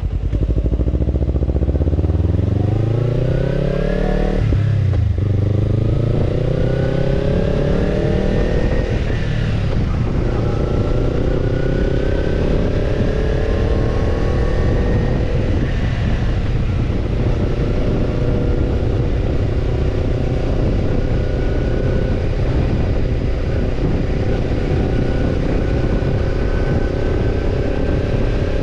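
Kawasaki Ninja 250's parallel-twin engine through a BEET Nassert Evolution Type II titanium slip-on muffler, accelerating with two upshifts in the first ten seconds, the pitch dropping at each shift. It then holds a slowly rising cruise.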